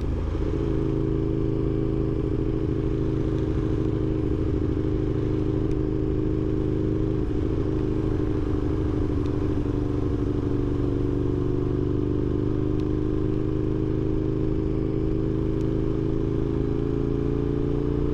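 Aprilia sportbike engine running steadily at cruising speed, heard from on the bike. Its pitch sags slightly through the middle and climbs again near the end as the throttle opens.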